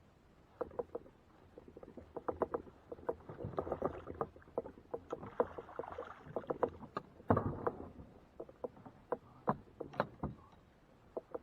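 Quick, irregular knocks and clatter on a fishing kayak's hull and gear, densest in the middle with the loudest knock about seven seconds in.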